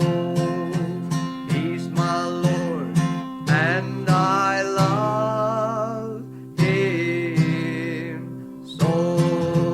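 Gospel song with a strummed acoustic guitar under a singer holding long, wavering notes; the guitar comes back in strongly near the end.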